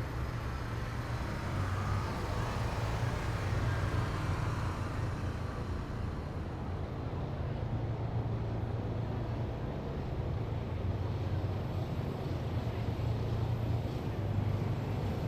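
Engines of heavy military vehicles driving past in a column, a steady low drone. The brighter road and tyre noise eases off about five seconds in while the drone carries on.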